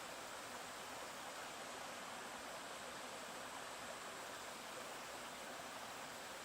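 A mountain stream flowing, a steady even rush of water without breaks.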